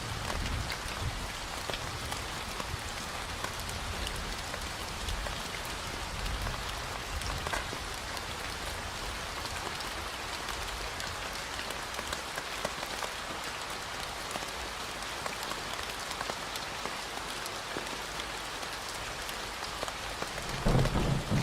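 Steady rain falling, a dense, even patter of drops. A low rumble of thunder comes in near the end.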